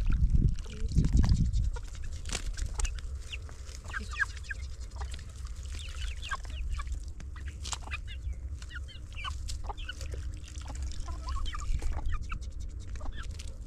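Many short bird calls in quick succession, with a low rumble in the first second and a half.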